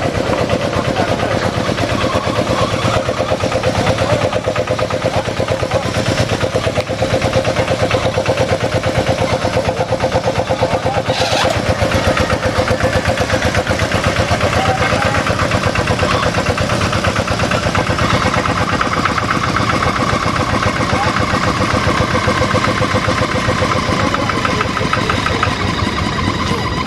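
Rice-field tractor's diesel engine running, with a fast, even chugging. About two-thirds of the way through, a whine comes in over it and slowly falls in pitch.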